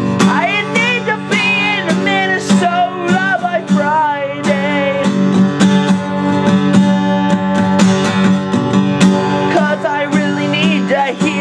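Acoustic guitar strummed with a voice singing a melody over it.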